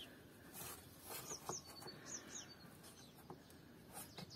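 Faint chirps of small birds: a handful of short, high, curved notes in two pairs between about one and two and a half seconds in, with a few faint clicks of a hand on plastic.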